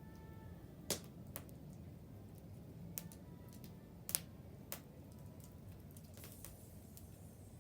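Wood fire burning with a low steady rustle and irregular sharp crackles and pops from the burning wood, the loudest about a second in and about four seconds in.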